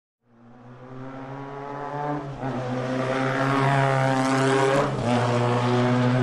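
Motorcycle engine sound effect for the Cyclone bike. It fades in and builds to a steady, loud engine note, then sweeps past with a slight drop in pitch about five seconds in.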